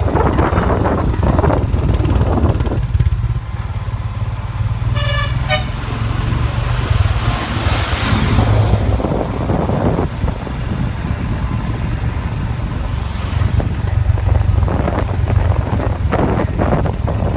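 Royal Enfield Himalayan motorcycle running on the road, with wind rushing over the microphone. A vehicle horn honks briefly about five seconds in.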